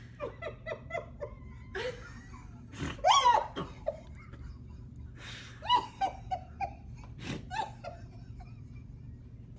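A person laughing in quick repeated bursts, with a louder high cry about three seconds in and another run of laughter about six seconds in.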